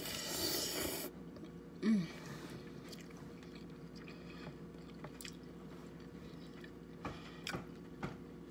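Close-up chewing and wet mouth sounds of someone eating crab meat in butter sauce. There is a crackling rustle in the first second, a short voiced 'mm' about two seconds in, and a few soft clicks later on.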